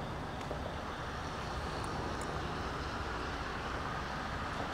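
Norfolk Southern freight train passing, with the steady noise of wheels on rail and the low hum of its diesel locomotives, and a couple of faint high ticks near the middle.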